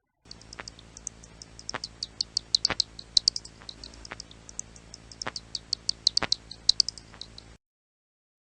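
Bat squeaking: a rapid, irregular series of short high chirps and clicks over a faint steady hum, cutting off suddenly about a second before the end.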